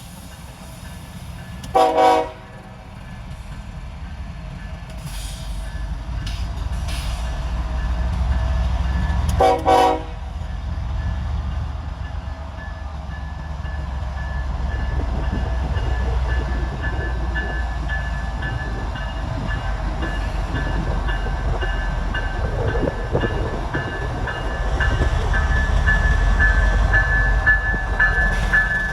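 Locomotive horn sounding two short blasts several seconds apart, over the low rumble of an approaching train that grows steadily louder. In the second half a high ringing tone comes and goes.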